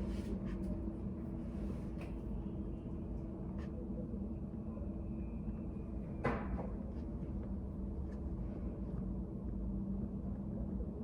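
Study-cafe room ambience: a steady low hum with faint scattered clicks, and one sharper click about six seconds in.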